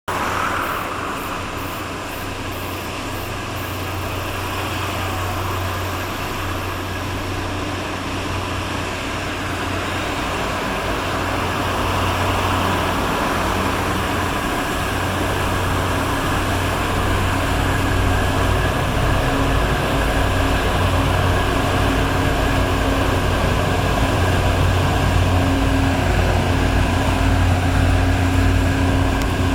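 A tugboat's diesel engines running as it passes, a steady low drone with a deep hum that grows gradually louder as the boat draws nearer.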